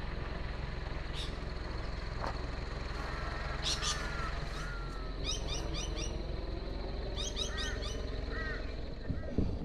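Wild birds calling over a steady low background rumble. A clear gliding whistle comes a few seconds in, then two quick runs of sharp, rapid chirps, then a few short falling notes near the end.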